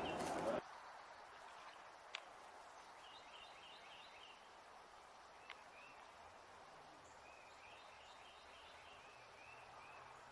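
Faint bird chirping in runs of short, repeated high notes over a quiet background, with two small clicks about two and five and a half seconds in. A louder sound at the very start cuts off abruptly about half a second in.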